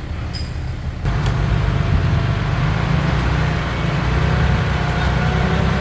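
Heavy diesel earth-moving machinery running at a construction site, its engine getting louder and busier about a second in and then holding steady.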